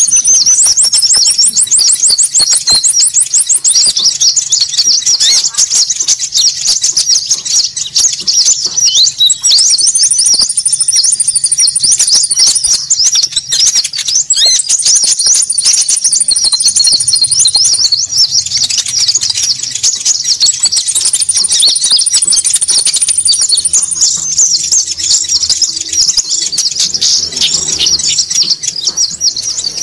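Bird-lure recording of noisy konin calls: many small birds chattering in a dense, unbroken stream of quick high chirps, with a higher thin trill that comes back every few seconds.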